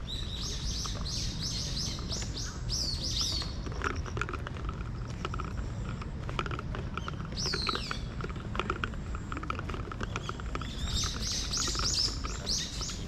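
A small songbird singing a rapid run of high, repeated chirps, a few notes a second with a down-slurred note at its close, and then again near the end. A steady low rumble runs underneath.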